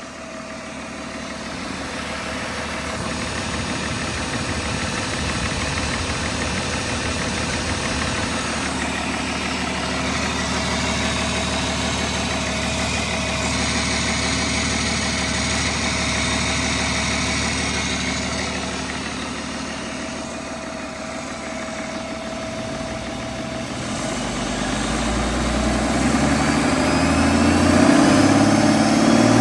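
2004 Hino J08E-TA 7.7-litre turbodiesel engine running at a steady idle, then revving up over the last few seconds.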